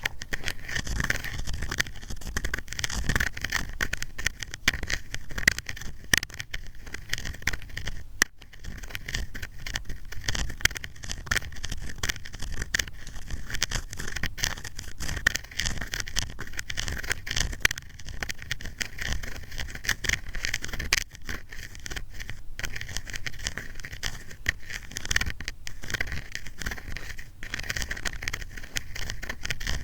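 Ear cleaning on a microphone: an ear pick scraping and rubbing, a dense, continuous crackle of small scratches and clicks.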